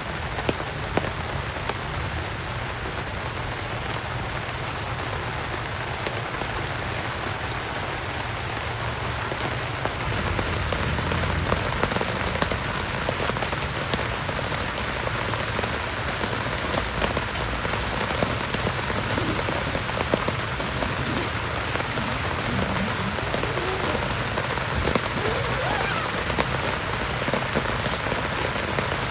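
Heavy rain falling steadily, with many individual drop impacts, growing heavier about ten seconds in.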